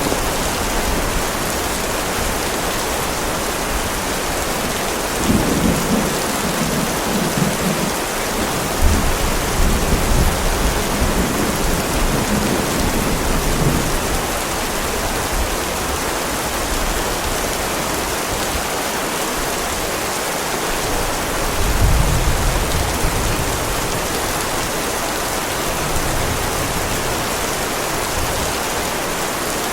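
Heavy rain falling steadily, with thunder rumbling low twice: once from about five seconds in for several seconds, and again from about twenty-two seconds in.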